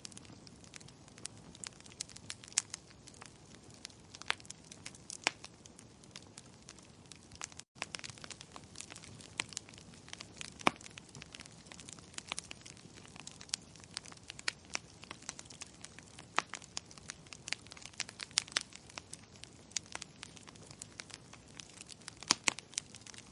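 Wood fire crackling: irregular sharp pops and snaps of varying strength over a low steady hiss, with a momentary cut-out about eight seconds in.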